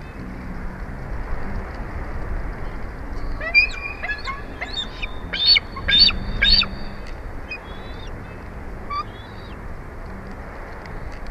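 Bald eagle calling: a run of high, chirping calls with downward slurs about a third of the way in, the three loudest close together just past the middle, and a few fainter calls near the start and end. A steady rush of background noise runs underneath.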